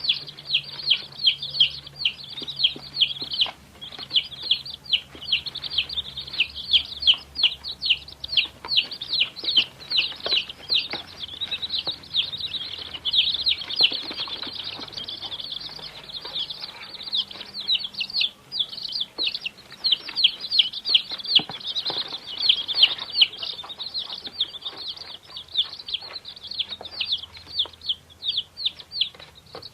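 A group of baby chicks peeping continuously: many short, high chirps overlapping, several each second.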